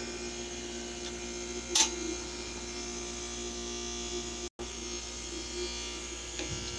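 A steady mechanical buzz, like a small motor running, with a sharp click a little under two seconds in and a brief cut in the sound midway.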